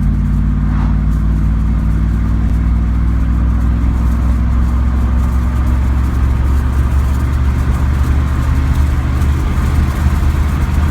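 A 1997 Camaro Z28's rebuilt LT1 V8 pulling under acceleration in third gear onto a freeway, its low rumble steady and strong.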